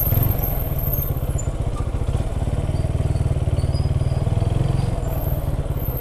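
Motorcycle engine running at low revs as the bike rolls slowly and slows down, a steady low putter of exhaust pulses heard from the rider's seat.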